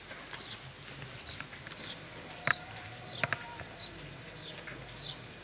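A small bird chirping over and over, one short high chirp about every half second, with a couple of sharp clicks a little after the middle.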